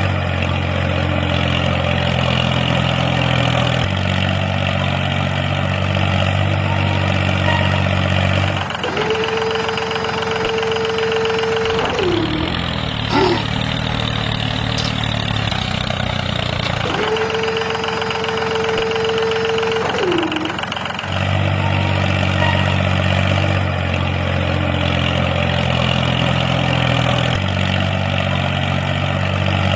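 Steady engine idling sound of a tractor. In the middle the sound changes abruptly, and for about ten seconds a held horn- or siren-like tone sounds twice, each time lasting about three seconds and bending in pitch as it ends.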